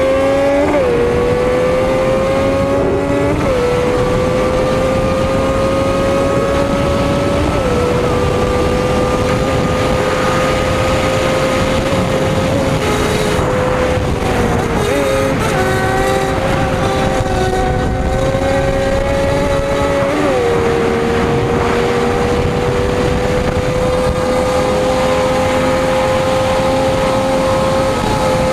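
Sport motorcycle engine running hard at high speed, its pitch dropping abruptly several times at upshifts or throttle changes and then slowly climbing again, over a steady rush of noise.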